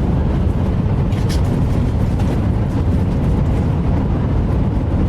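Shinkansen bullet train running at speed, heard from inside the passenger cabin: a steady deep rumble of wheels and running gear. A faint brief hiss comes about a second in.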